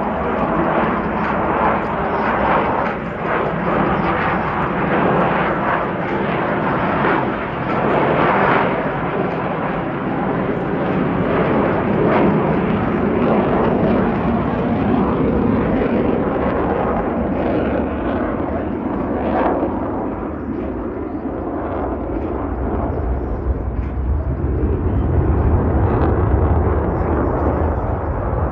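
Two F/A-18 Super Hornet fighter jets flying a slow, high-angle-of-attack pass, making a loud, continuous jet-engine noise. The deep rumble grows stronger near the end.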